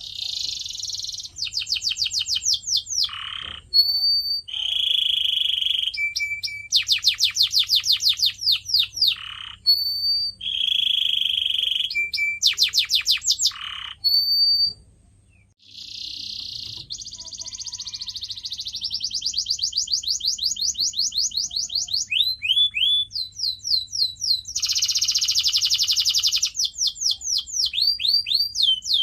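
Domestic canary singing a long song of rapid rolling trills, buzzy held phrases and short clear whistles, with a brief pause about halfway through.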